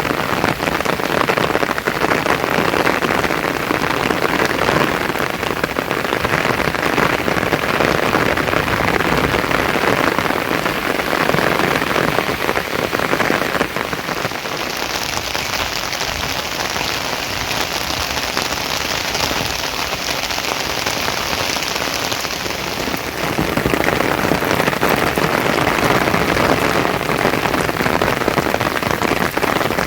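Steady rain falling, a dense even hiss of drops. From about halfway in, for several seconds, the rain turns hissier and thinner before settling back.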